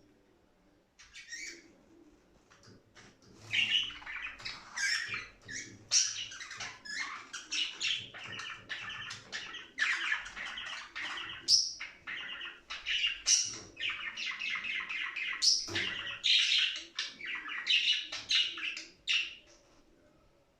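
Budgerigars chirping and warbling in a quick, busy stream of high chirps. The calls start about a second in and stop shortly before the end.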